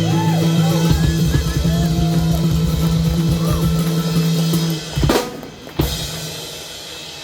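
Live band finishing a song: a held bass note under rolling drum fills, then two sharp final hits with the whole band, after which the music stops.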